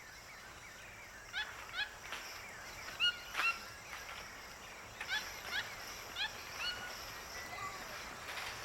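Short chirping animal calls, each a quick upward-hooked note, repeated in quick runs of two or three over a faint steady hiss of forest background.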